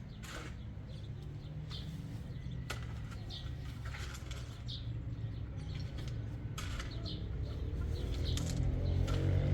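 Small birds chirping in short, repeated calls over a low steady rumble, with music fading in near the end.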